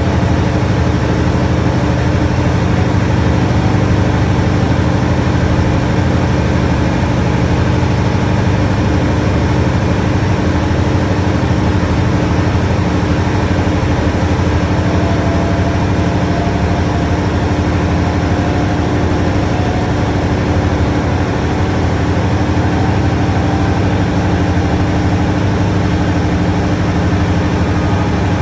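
MTU diesel engine of an HST power car running hard under acceleration: a steady, loud engine drone with a thin high whistle that slowly rises in pitch.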